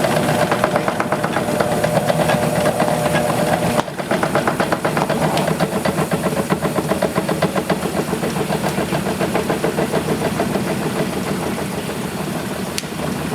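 Opened-up washing machine lying on its side, running with a fast, steady rattle as the drum turns and the machine shakes, out of balance because it is on its side. The level dips briefly about four seconds in, then the running carries on.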